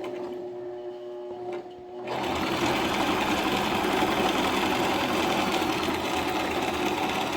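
Electric sewing machine stitching: slow for the first two seconds, with a steady hum and light clicks, then from about two seconds in running loud and fast, steadily. It is running too fast for comfortable sewing.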